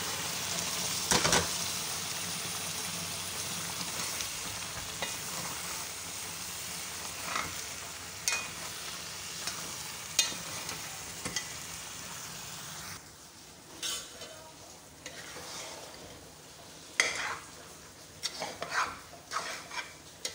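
Egusi soup sizzling and frying in a pot as meat, stockfish and stock are stirred in with a wooden spoon, with scattered scrapes and knocks of the spoon against the pot. The sizzle drops away about two-thirds of the way through, leaving mostly spoon scrapes and taps on the metal pot.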